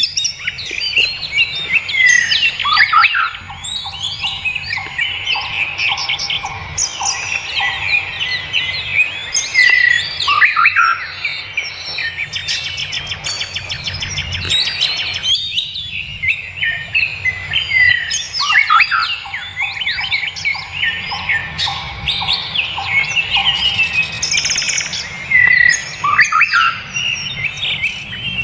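Several wild birds chirping and singing at once: a dense chorus of overlapping chirps, trills and whistled glides. Twice, a lower note repeats in a steady series of about two a second for a few seconds.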